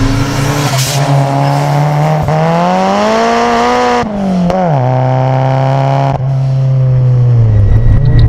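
Turbocharged four-cylinder hatchback engine under hard acceleration: the revs climb for about two seconds, drop sharply around the middle as it shifts or lifts, then hold steady and fall away near the end.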